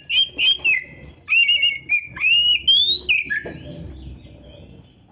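Oriental magpie-robin (kacer) singing a quick run of varied whistled and chattering phrases, with a clear rising whistle partway through. The song breaks off about three and a half seconds in.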